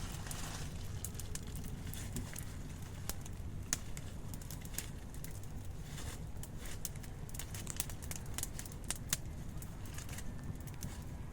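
Irregular sharp crackles and clicks, scattered unevenly, over a low steady rumble.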